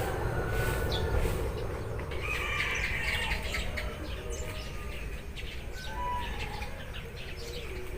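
Eurasian tree sparrows chirping, with a dense burst of chatter a couple of seconds in, over a steady low rumble.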